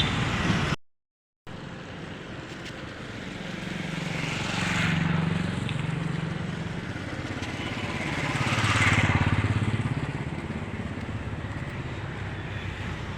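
Two vehicles pass one after the other on a rain-soaked road, each engine note and tyre hiss swelling and falling away as it goes by, over a steady wash of rain and street noise. The sound cuts out completely for a moment about a second in.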